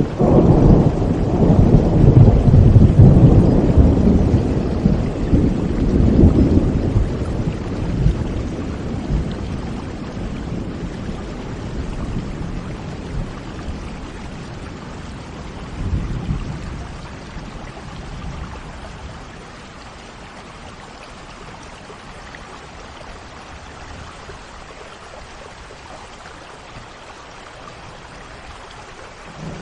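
Steady rain with rolling thunder: a long, low rumble over roughly the first seven seconds that slowly dies away, and a shorter one about sixteen seconds in, leaving an even hiss of rainfall.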